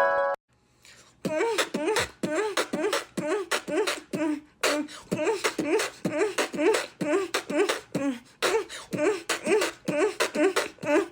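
A voice making quick, rhythmic vocal sounds: short repeated syllables with a wavering pitch, about three a second, starting about a second in after a brief gap.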